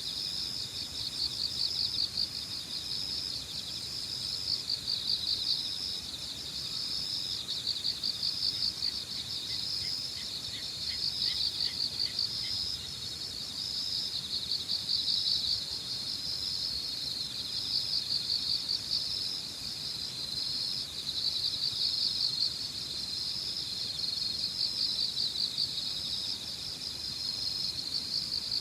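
Autumn insects, crickets, chirping together in steady, repeated pulsing phrases. Around the middle there is a short run of quick, evenly spaced notes from another caller. Underneath is a low hiss of wind.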